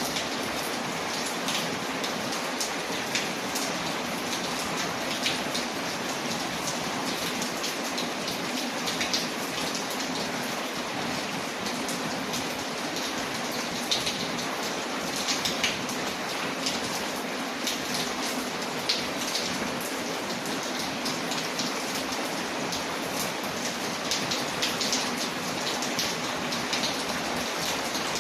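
Steady rain falling, with many small sharp ticks of drops scattered through it.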